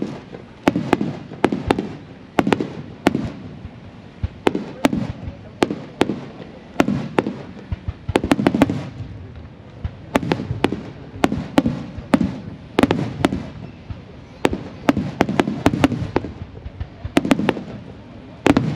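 Aerial fireworks shells bursting overhead: sharp cracks in quick irregular volleys, several a second at times, mixed with deep booms and rolling echoes that die away between salvos.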